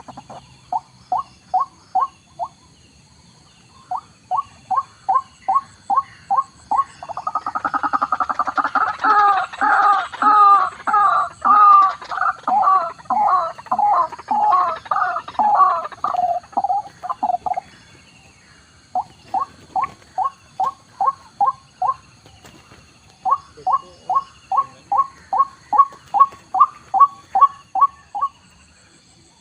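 White-breasted waterhen calling: series of short, clipped notes at about four a second, in bouts broken by brief pauses. In the middle the calls thicken into a louder, overlapping chorus before thinning back to single series.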